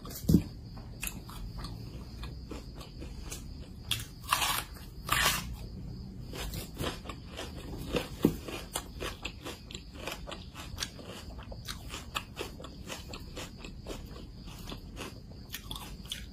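Close-miked chewing of fried samosas: a steady run of short crisp clicks from the pastry and filling, with a few louder ones about four, five and eight seconds in.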